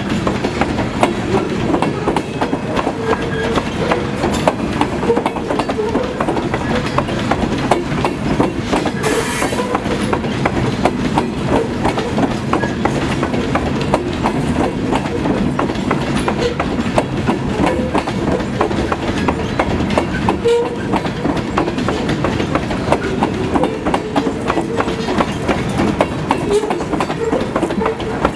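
Loaded covered grain hopper cars of a freight train rolling by on a curve: a steady rumble of wheels on rail with rapid clicking over the joints and short squeals here and there.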